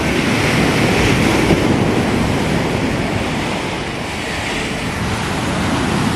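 Rough sea surf washing and breaking, with wind buffeting the microphone. The wash swells about a second in and again near the end.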